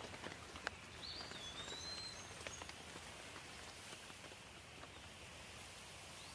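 Steady rain hiss with scattered dripping raindrops ticking. About a second in, a bird gives a whistled call that slides up and then down, with a few faint higher chirps.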